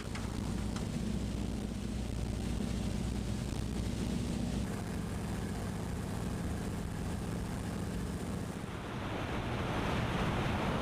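Floatplane's propeller engine running steadily with a low drone that eases after about five seconds, followed by a rising rush of noise near the end.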